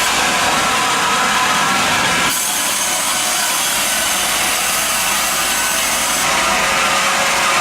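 Mebor sawmill cutting through wood: a steady, loud sawing noise whose tone shifts slightly a couple of seconds in and again near the end.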